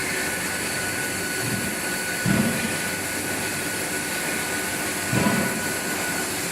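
Steady machine noise with a constant high whine from a running CNC hydraulic die-forging hammer between blows, with a few soft, low thuds.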